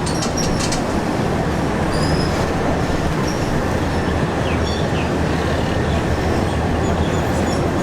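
Passenger train on the Death Railway running along the track: a steady rumble and rattle, with brief faint high squeaks now and then.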